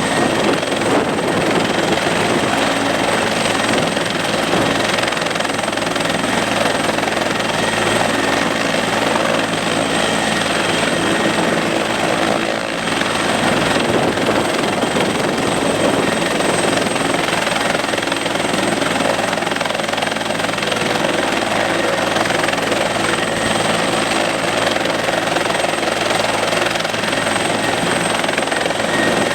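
Helicopter engine and rotor running steadily and loudly, a constant drone of low tones under a wide wash of noise, with a brief dip about halfway through.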